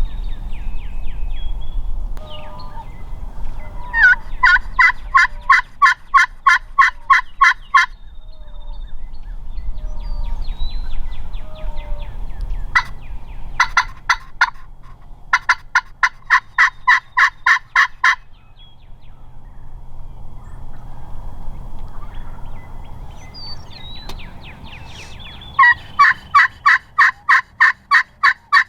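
Turkey yelping: three long series of loud, evenly spaced yelps, about three or four a second, plus a shorter burst between the first two, over a steady low rumble.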